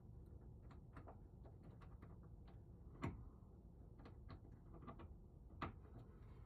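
Faint scattered clicks and taps of hand tools working on a lock cylinder, with two louder knocks about three seconds and five and a half seconds in.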